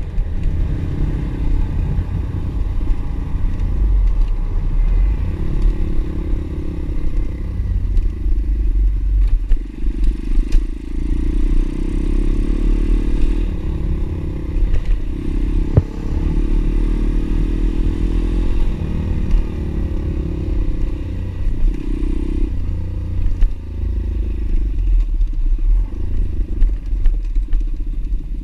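Pit bike engine running with its pitch rising and falling as the throttle changes, along with rattling and scraping from the bike riding off-road.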